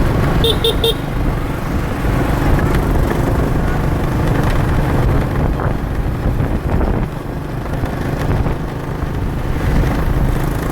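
Road traffic noise with a steady low rumble of engines and wind, heard from a moving motorbike in city traffic; a vehicle horn gives three quick toots about half a second in.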